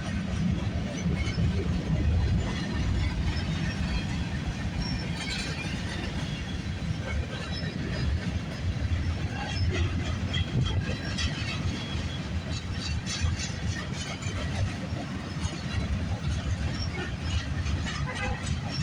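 Freight cars of a long train rolling past at close range: a steady low rumble with frequent clicks of the wheels on the rails.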